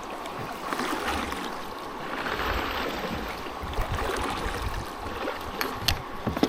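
River water rushing and splashing around a kayak, swelling in level a couple of times, with a few sharp clicks near the end.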